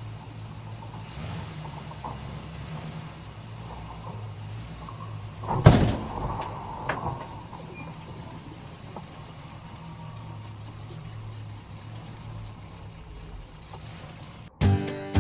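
A steady low mechanical hum, with a loud knock about six seconds in and a smaller one a second later. Guitar music starts just before the end.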